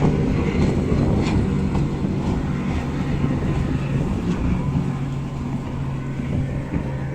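Racing powerboat engine running at speed, a steady drone that eases off slightly toward the end as the boat moves away.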